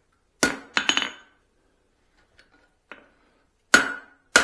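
Blacksmith's hammer striking a red-hot steel hammer head on the anvil: five separate blows at uneven spacing, each with a short metallic ring, the third one faint. These are light adjusting blows while shaping the cross peen.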